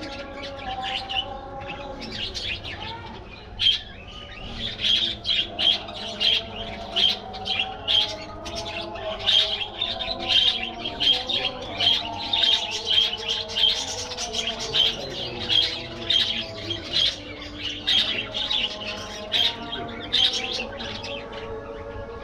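A flock of budgerigars chirping, with many short high calls in quick succession, several a second and busiest through the middle. Steady held tones run underneath.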